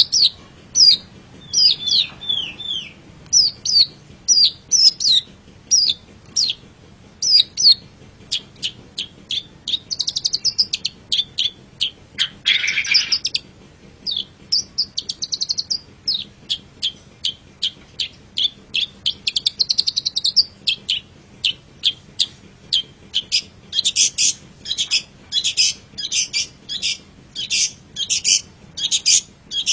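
Long-tailed shrike (cendet) singing a fast string of sharp, high chirps and short trills. A harsh, rasping call comes about twelve seconds in, and a quick run of repeated sharp notes fills the last few seconds.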